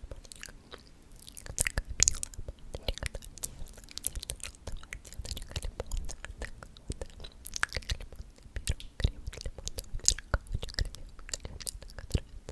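Close-miked ASMR mouth sounds: a dense, irregular run of sharp clicks and smacks from the lips and tongue.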